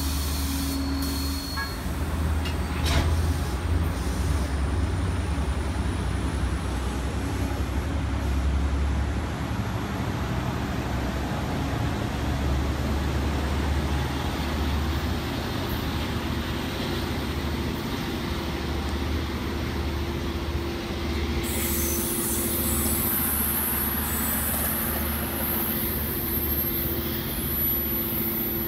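Long Island Rail Road diesel push-pull train of C3 bilevel coaches pulling out and rolling past: a steady low engine rumble with a faint high whine that slowly rises in pitch. About two-thirds of the way through, a high hiss joins in.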